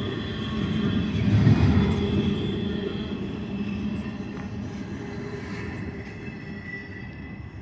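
Double-stack intermodal freight cars rolling past, a steady rumble of wheels on rail with a thin high squeal of wheels above it, fading slowly near the end.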